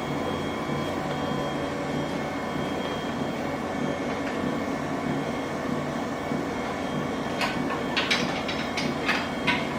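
Treadmill motor and belt running steadily, a low even hum with a faint steady whine, the belt freshly cleaned and relubricated. In the last few seconds a series of sharp clicks and knocks sounds over it.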